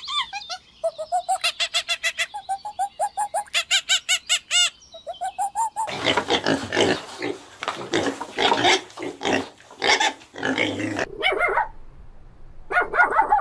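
Animal calls: a rapid run of short, high, pitched squeaks for about six seconds, then several seconds of harsher, rough calls, with a few short ones near the end.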